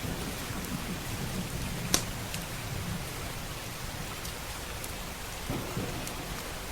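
Steady rain with scattered fireplace crackles, one sharp pop about two seconds in. A low thunder rumble runs under the first few seconds.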